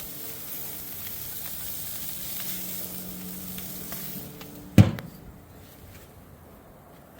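Food sizzling as it fries on a hot cooking surface, a steady hiss that dies away about four seconds in. Just under a second later comes a single sharp knock, the loudest sound.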